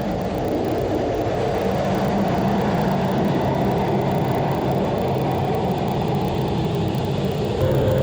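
Steady low rumble of jet engines, growing slightly louder, with a step up near the end.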